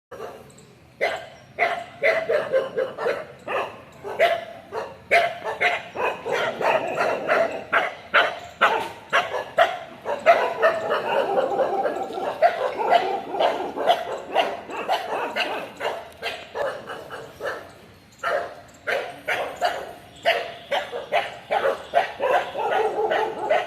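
Several dogs barking rapidly and continuously, their barks overlapping, starting about a second in. The barking breaks off briefly around three-quarters of the way through, then starts again.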